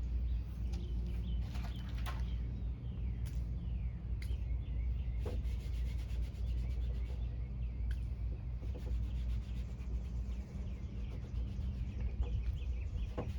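Knife blade scraping and shaving wood by hand in irregular short strokes, over a steady low hum. Birds chirp faintly in the background.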